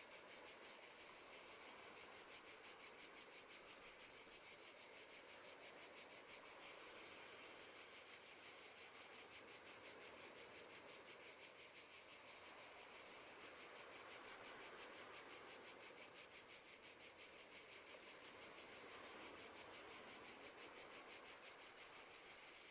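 Crickets chirping in a steady, fast, even pulse, faint and unbroken.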